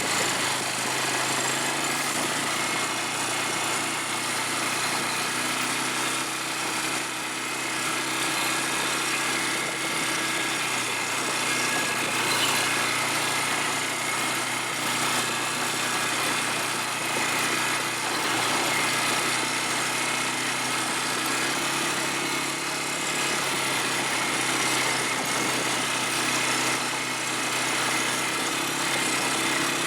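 ATV engine running steadily, with no clear revving or stops.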